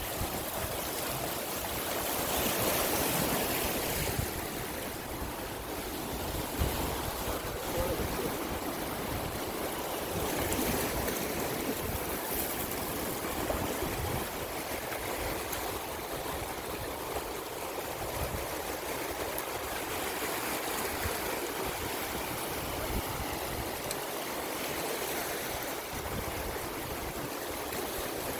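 Sea water rushing and splashing in a steady wash, with gusts of wind buffeting the microphone.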